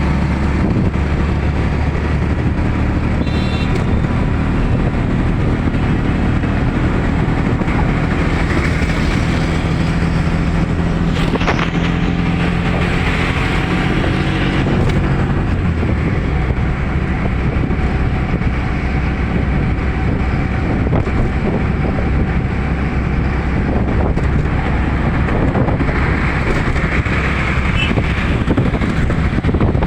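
Steady vehicle engine rumble with traffic noise, a low engine hum that shifts in pitch partway through, with a brief click about eleven seconds in.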